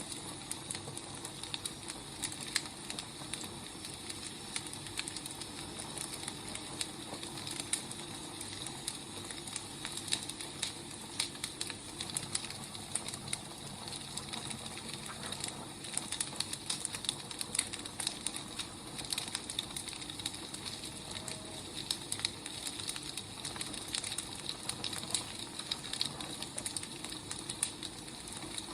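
Burning firewood crackling: a steady hiss with frequent irregular pops and snaps.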